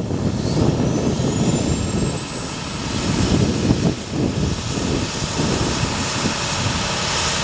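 2008 International 4300 bucket truck's diesel engine running, with a low rumble and a high whine that rises in pitch over the first two seconds and then holds steady.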